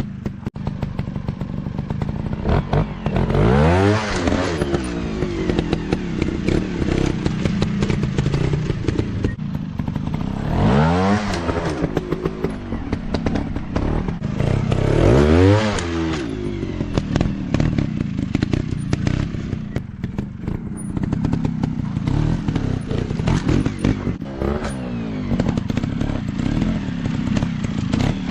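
Dirt bike engines running off-road, rising and falling in pitch three times as they rev up and back down over a steady engine drone, with rattling and clattering throughout.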